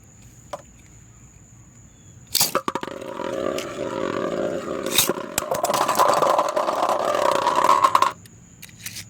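Beyblades launched into a plastic stadium with a sharp snap about two seconds in, then spinning, scraping and clashing in the dome with a wavering whir and rapid rattling for about six seconds, stopping suddenly near the end.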